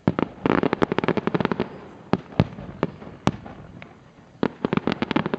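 Fireworks going off: rapid strings of sharp bangs and crackles, with a few single louder bangs spaced out between two dense bursts.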